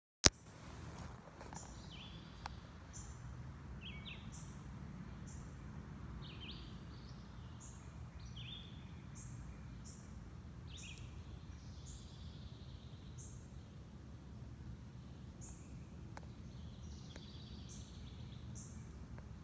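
A sharp click at the very start, then short, high bird chirps repeating about every half second to a second over a steady low background rumble.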